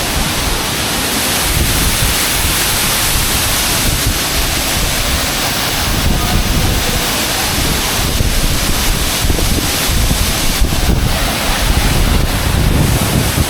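A waterfall heard up close: a loud, steady rush of falling water, with wind buffeting the microphone in the low end.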